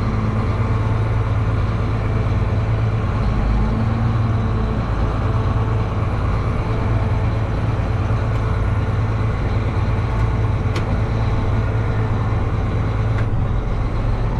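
Tractor engine idling steadily at an even pitch, with a single sharp click about 11 seconds in.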